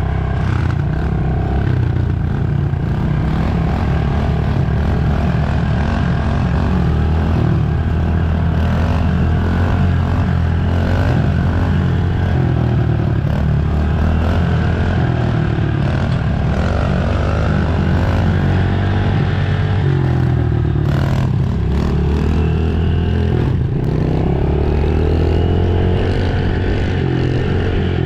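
110cc four-stroke single-cylinder dirt bike engine running hard while being ridden, the revs rising and falling again and again through the ride.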